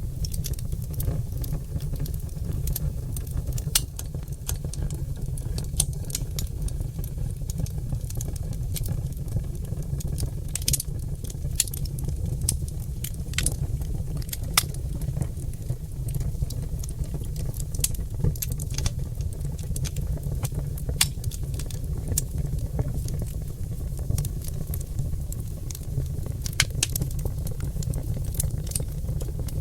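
Oak log fire in a fireplace crackling, with irregular sharp pops scattered over a steady low rumble of the burning fire.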